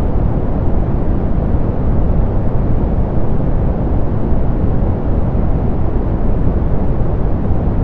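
Steady, softened pink noise: an even hiss weighted toward the low end, with no changes or events.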